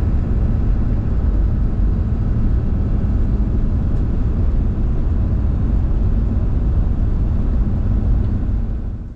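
Steady low rumble of a vehicle on the road, engine and road noise while driving; it cuts off suddenly at the very end.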